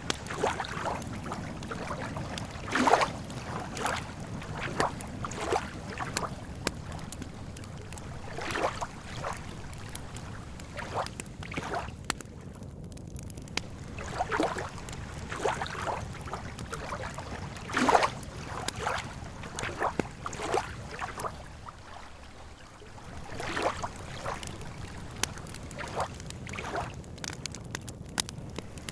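Lake water lapping at the shore in small, irregular splashes over a low, steady background rumble.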